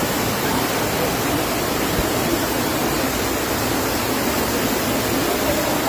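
Floodwater rushing steadily in an even, unbroken noise.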